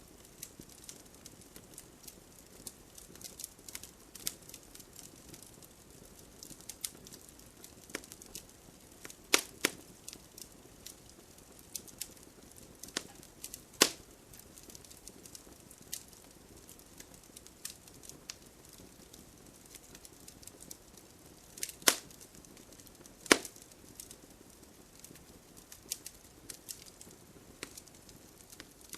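Wood campfire crackling: a steady scatter of small sharp pops and ticks over a soft hiss, with a few much louder snaps from time to time.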